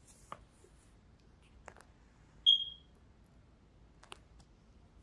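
A single short, high electronic beep about halfway through, with a few faint clicks and taps before and after it.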